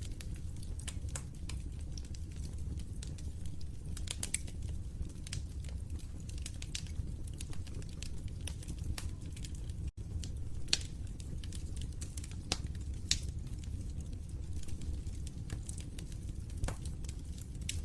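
Fire in a fireplace crackling, with frequent sharp pops and snaps over a steady low rumble. The sound cuts out for an instant about ten seconds in.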